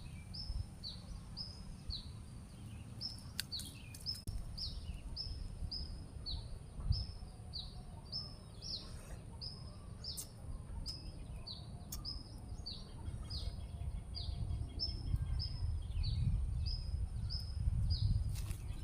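A bird repeating a short, falling chirp over and over, about two to three a second, over a low rumble. A few faint clicks scattered through it.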